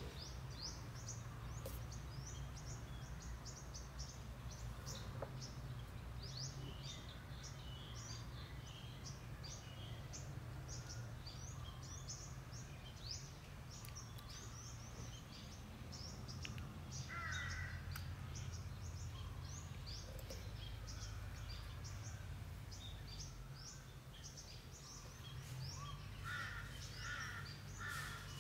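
Faint birds chirping throughout, with a few harsher repeated calls midway and again near the end, over a low steady hum.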